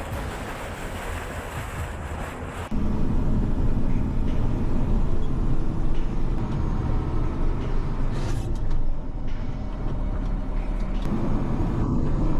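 A steady rushing noise at first. About three seconds in it cuts abruptly to the loud, steady running of a heavy diesel machine engine under load.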